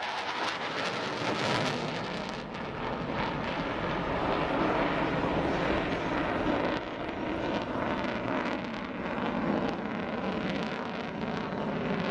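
F-15 fighter jet's twin turbofan engines in afterburner during a flyby: a dense, continuous rush of jet noise that eases a little twice.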